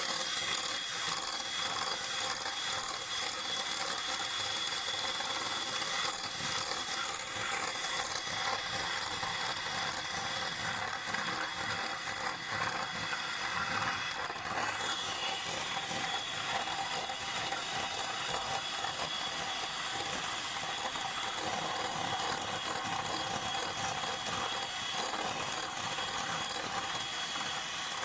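A spoon beating instant coffee and sugar in a cup, a rapid, continuous run of clicking and scraping against the cup.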